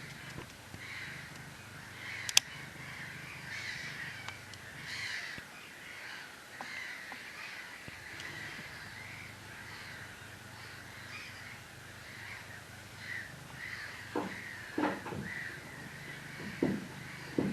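A flock of birds calling continually, many short, overlapping calls. There is a sharp click a couple of seconds in and a few dull knocks near the end.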